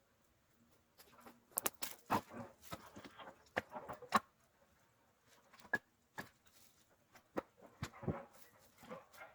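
Split firewood knocking and clattering as pieces are handled and stacked: an irregular run of sharp knocks, a short lull, then a second run near the end.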